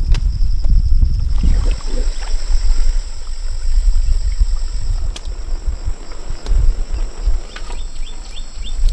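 Wind buffeting the microphone as an uneven low rumble, over a steady high-pitched drone of jungle insects, with a few short chirps near the end.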